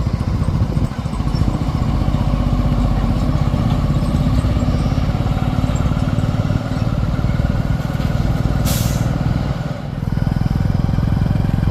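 Heavy diesel engine running steadily under work, with a short hiss about nine seconds in.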